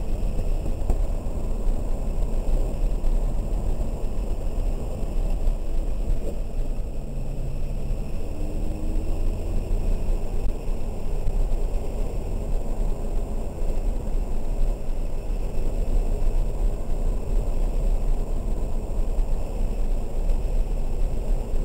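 Inside the cabin of a 2003 BMW 330i ZHP on a wet track: its inline-six engine running under load over a steady rush of tyre and water-spray noise. The engine note climbs slowly about eight to ten seconds in.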